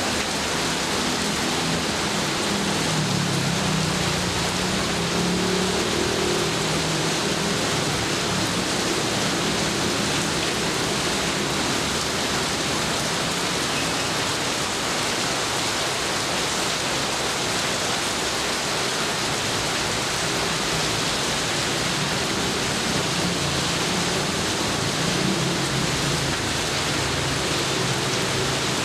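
Steady heavy rain falling, an even hiss, with a low rumble swelling and fading a few seconds in and again near the end.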